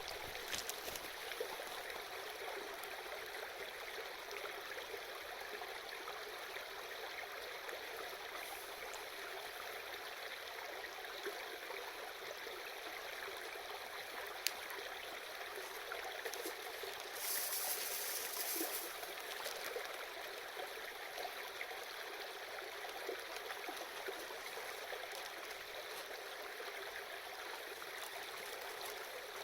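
Small river babbling steadily over stones. A single sharp click comes about halfway through, and a short hiss follows a few seconds later.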